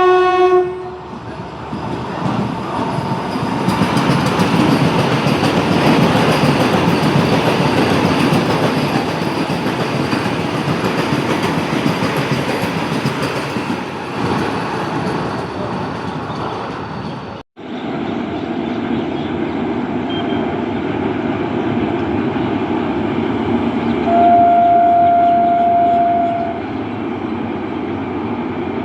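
Indian Railways train passing close by, its wheels rumbling and rattling over the rail joints, with a locomotive horn sounding at the very start. After a sudden cut, another train runs by and a locomotive horn sounds one steady tone for about two seconds near the end.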